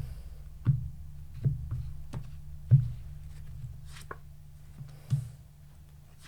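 Tarot cards being handled on a table: a handful of soft, sharp taps and slaps as the deck is shuffled and cards are laid down, over a steady low hum.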